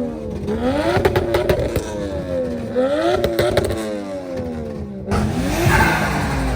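Car engine revved repeatedly, its pitch climbing and dropping about every two seconds, with sharp crackles and pops near the top of the revs. The sound breaks off abruptly about five seconds in, then another rev climbs and falls.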